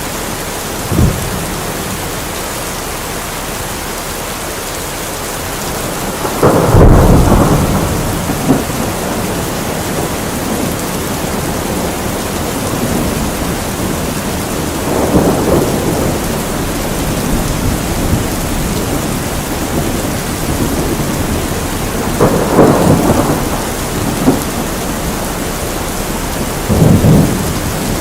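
Steady heavy rain with thunder rumbling several times; the loudest roll comes about a quarter of the way in, with weaker ones around the middle and near the end.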